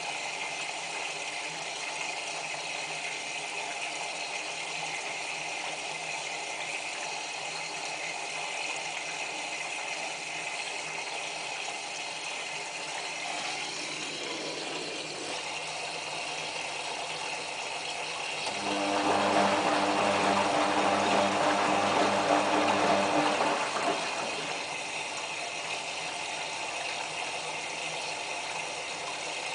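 Whirlpool AWM4066 front-loading washing machine taking in water for its rinse: a steady hiss of water running into the machine. About two-thirds of the way through, a louder motor hum with a rush of water comes in for about five seconds, then stops, and the filling hiss goes on.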